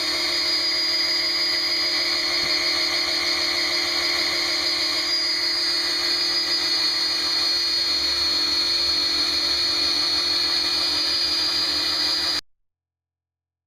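Electric drill running steadily, spinning the oil pump of a replacement marine engine to pre-lube it before first start-up; it stops abruptly near the end.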